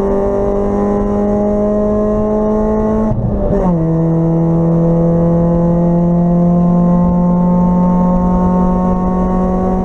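Integra race car's four-cylinder engine heard from inside the stripped cabin, pulling hard with the revs slowly climbing; about three seconds in there is a brief break and the pitch drops as the driver shifts up a gear, then it pulls steadily again.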